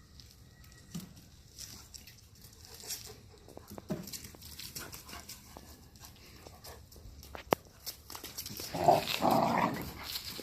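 Puppy giving a short cry of about a second near the end, amid light scattered clicks and rustling, with one sharp click just before it.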